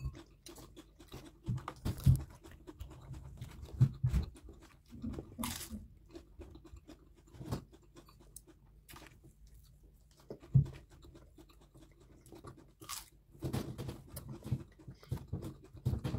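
Chewing and mouth sounds of people eating noodles and chicken by hand, with scattered soft clicks and a few louder knocks.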